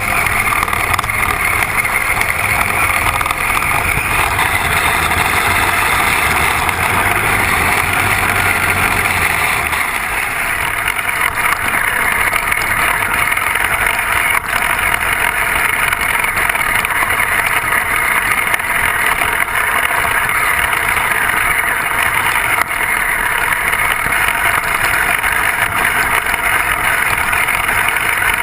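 Kyosho Blizzard radio-controlled tracked vehicle driving, its electric motor and tracks making a steady rushing noise. A low rumble underneath drops away about ten seconds in.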